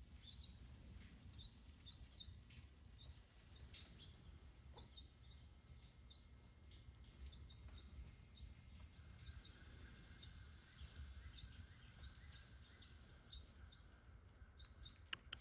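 Faint, short, high chirps from a small bird, repeated singly and in pairs every half second to a second, over a low steady background rumble.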